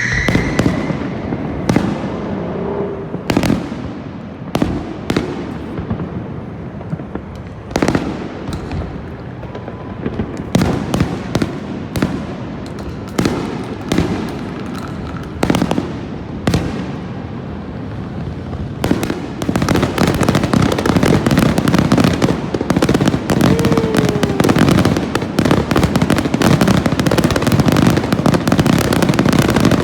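Aerial fireworks shells bursting overhead: separate loud bangs with echoing tails every second or two, then, about two-thirds of the way in, a rapid barrage of bangs and crackling that runs almost without a break.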